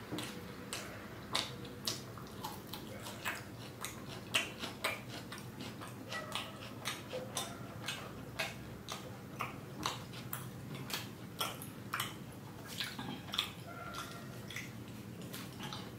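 Close-miked chewing of a mouthful of paneer curry: irregular wet mouth clicks and smacks, a few a second.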